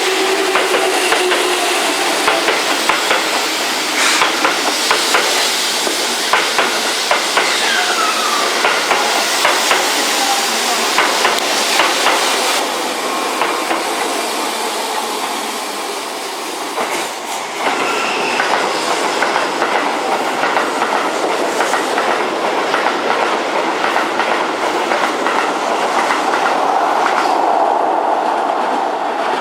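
A Keihan 3000-series train passing through the station without stopping, its wheels clattering over the rail joints car after car.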